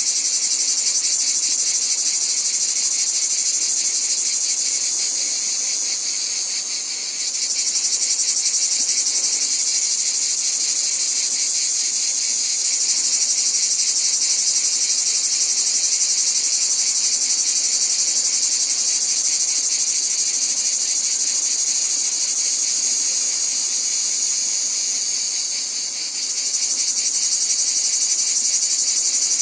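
A dense, continuous chorus of chirring insects. It fades briefly about seven seconds in and again a few seconds before the end.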